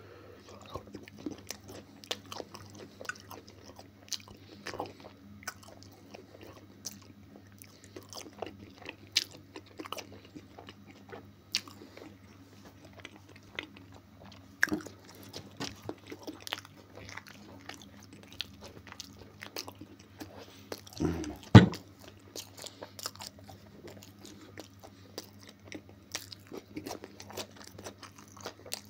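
A person chewing Korean-style marinated pig ears close to the microphone: a steady run of crunchy bites and chews, with two louder knocks about three-quarters of the way through. A faint steady low hum sits underneath.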